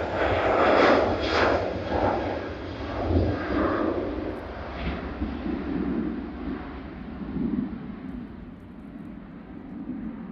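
An airliner's engines passing and fading away, the sound growing duller and quieter as it recedes.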